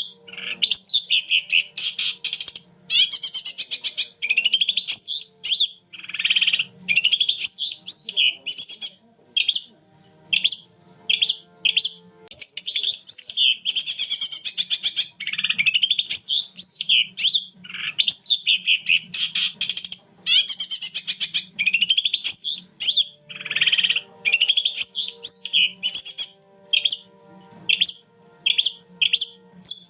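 Long-tailed shrike (cendet) singing nonstop in rapid, varied bursts of high chattering and whistled phrases, with quick sweeps in pitch and short breaks between phrases.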